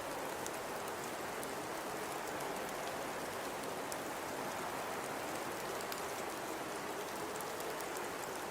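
Steady blizzard ambience: an even rush of high wind and driven snow, with faint scattered ticks throughout.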